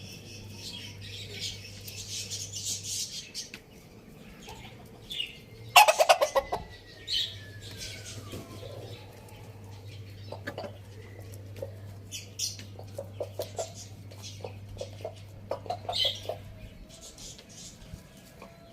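Chickens clucking while feeding, with many short pecking clicks and brief high calls, and one loud burst of clucking about six seconds in.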